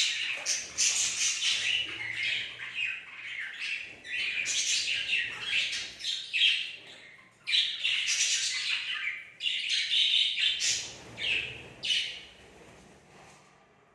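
Budgerigars chirping and squawking in a busy, near-continuous chatter of short high calls, falling quiet about a second and a half before the end.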